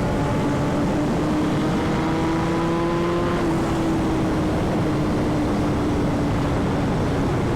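Sport motorcycle engine running hard at speed, its pitch rising slowly and then easing a little about three and a half seconds in, under a heavy rush of wind noise.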